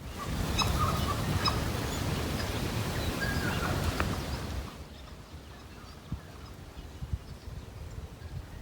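Forest birds calling, short chirps and whistles, over a steady outdoor rush. The rush drops away about five seconds in, leaving a quieter background with a few soft knocks.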